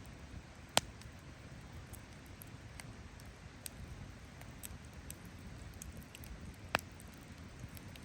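Wood campfire crackling: scattered small ticks over a low steady rumble, with two sharp pops, one about a second in and one near the end.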